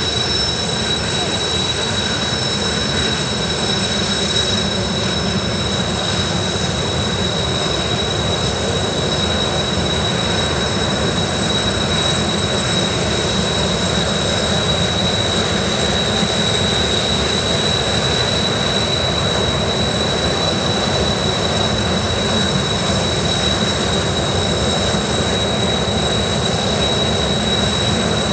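Kawasaki T-4 trainers' twin F3 turbofan engines running at taxi power on the ground: a steady, high whine over a rumbling roar.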